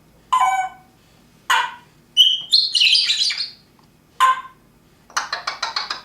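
African grey parrot calling in a string of short calls. About two seconds in come clear whistles that run into a harsh squawk. Near the end there is a fast rattling trill of about ten clicks a second.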